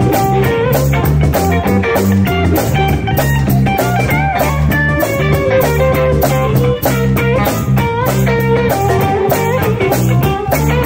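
Live blues band playing an instrumental stretch: electric guitar lines over bass and drums, with a steady beat.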